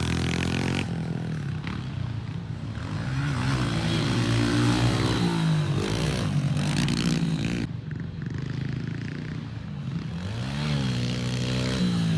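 Pit bike engines revving up and falling back again and again as the bikes ride around the track.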